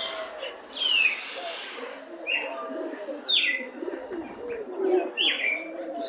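Several aviary birds calling: short, sharp chirps that slide down in pitch, one every second or so, over a background of low, wavering notes.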